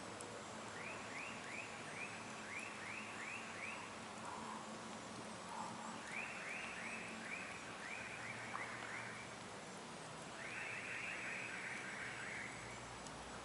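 Outdoor campfire ambience: a steady faint hiss with a few soft clicks. Over it, a small animal calls in three bouts of short, high chirps, about three a second, each bout lasting two to three seconds.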